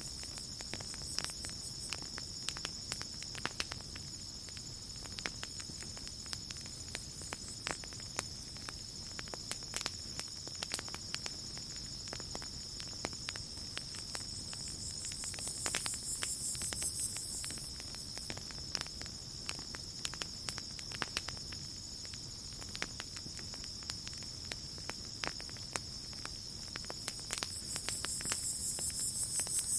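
Campfire crackling with irregular sharp pops, over a steady high-pitched chorus of crickets. A higher insect trill swells in twice, about halfway through and near the end.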